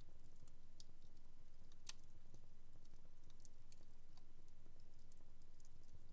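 Wood fire in a home fireplace crackling, with irregular small snaps and one sharper pop about two seconds in, over a low steady hum.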